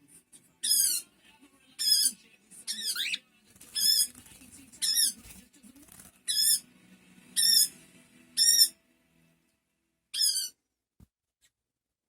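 Cockatiel calling over and over: about nine short, warbling chirps, roughly one a second, with a short pause before a last call near the end.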